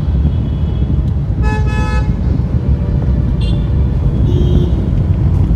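Steady rumble of road traffic, with a vehicle horn honking once for about half a second about one and a half seconds in, and a fainter short horn near the end.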